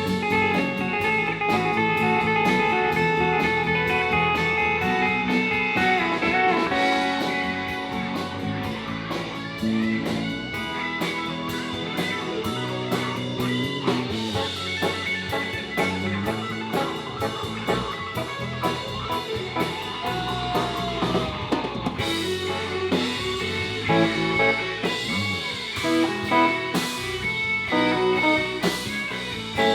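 Live band playing an instrumental break in a country-rock song, guitar leading over a drum kit.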